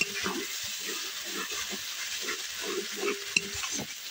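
A wooden spatula stirring and scraping a thick spice-and-tomato paste as it fries in mustard oil in an aluminium kadai. A steady sizzle runs under repeated, irregular scraping strokes, as the paste is cooked down until the raw tomato smell goes.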